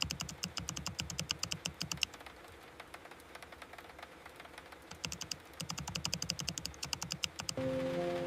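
Typing on a computer keyboard: rapid key clicks in two quick runs with a pause of about three seconds between them.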